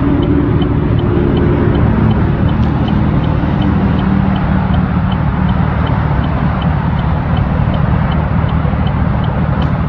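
Motor vehicle engine running at idle, a steady low rumble. A faint high tick repeats evenly a little over twice a second over it.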